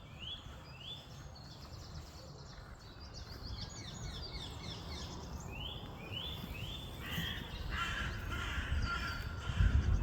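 Birds calling: series of short notes that sweep up and down in quick succession, with a denser stretch of chattering calls about seven seconds in, over a steady low outdoor rumble.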